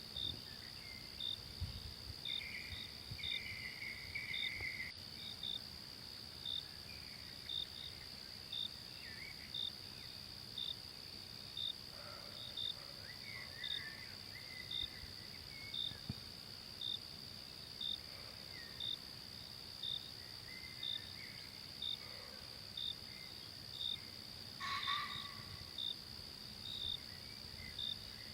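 Forest ambience of insects: a steady high drone with a short chirp repeating about once a second, typical of crickets. Scattered short bird calls come over it, one louder call near the end.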